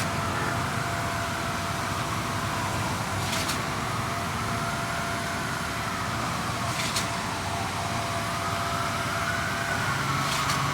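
Heavy machinery at a concrete pour running steadily, with a sharp knock about every three and a half seconds and a slow rising and falling whine between the knocks.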